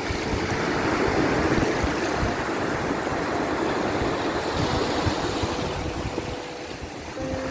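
Sea surf washing in, the rush of the waves swelling and easing.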